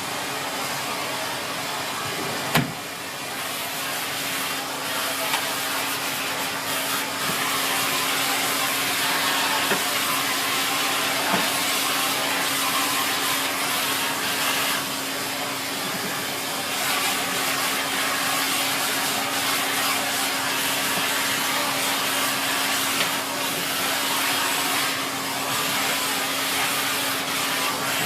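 Siemens Z6.0 Power bagged cylinder vacuum cleaner running steadily with its dusting brush, a rushing air sound over a steady hum. A few sharp knocks, the loudest about two and a half seconds in.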